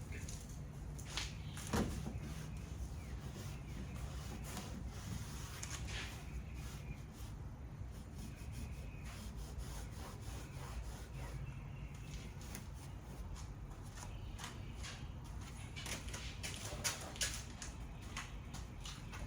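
Handling noises: scattered light clicks and knocks with some rubbing over a steady low rumble, the sharpest knock about two seconds in and a quick run of clicks near the end.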